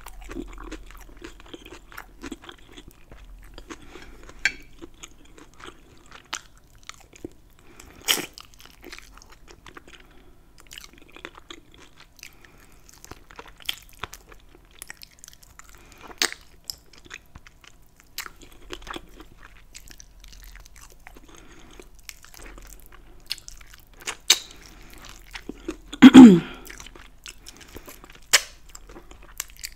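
Close-miked eating: biting into and chewing a fried, buffalo-sauced chicken drumstick, with crackly crunches, wet mouth sounds and scattered sharp clicks. One louder mouth sound with a brief falling hum comes a few seconds before the end.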